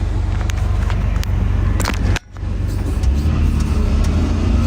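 Caterpillar 336 excavator's diesel engine running steadily, with a few light clicks. About two seconds in the sound drops out briefly, then the engine comes back louder and higher-pitched as it works harder.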